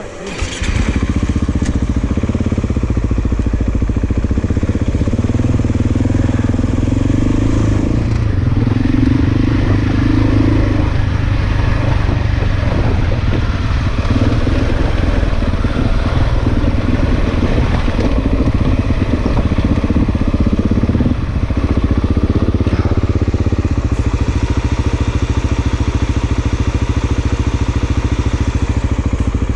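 Single-cylinder enduro motorcycle engine running close to the microphone while riding down a rough mountain track. It comes in loudly about half a second in and keeps a steady thumping pulse, with a brief dip about twenty-one seconds in.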